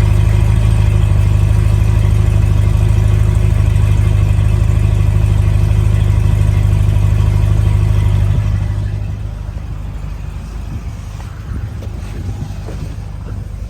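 2010 Corvette Z06's 7.0-litre LS7 V8 idling after a cold start, steady and loud. About eight seconds in it turns noticeably quieter and smoother.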